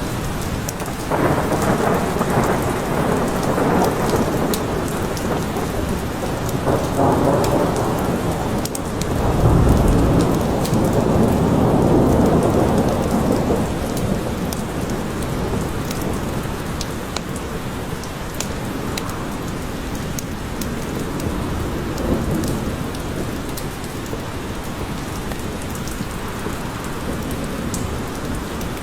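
Steady rain falling in a forest, with many small drop patters, and a long roll of thunder through the first half that swells loudest about ten seconds in and then fades.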